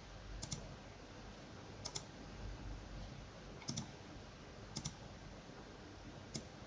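Faint computer mouse clicks, five in all, each a quick pair of ticks, spaced a second or two apart.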